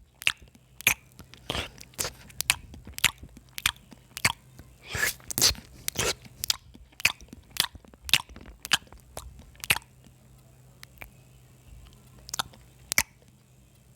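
Close-up chewing and crunching of food: quick wet mouth clicks and crunchy bites, several a second, thinning out to a few scattered ones near the end.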